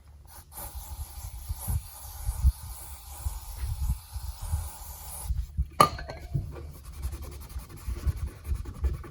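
Rubbing and scraping at gooey decal residue softened with brake cleaner on a snowmobile's fiberglass body, in irregular hand strokes. A sharp click about six seconds in.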